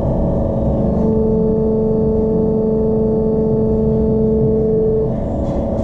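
Wheel-straightening machine's hydraulic press running with a steady tonal hum. An extra, stronger tone comes in about a second in and drops away shortly before the end as the ram pushes against bent alloy wheel spokes to take out the runout.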